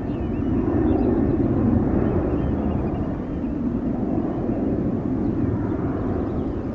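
Jet airliner engines heard as it passes, a steady rumble that swells about a second in and then slowly fades.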